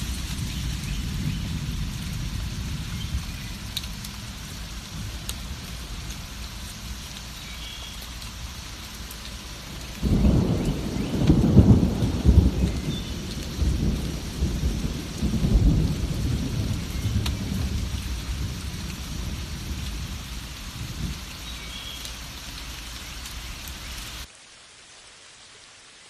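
Steady heavy rainfall with a roll of thunder that breaks in suddenly about ten seconds in, rumbles loudly for several seconds and slowly fades. Near the end the sound drops abruptly to a quieter, softer rain hiss.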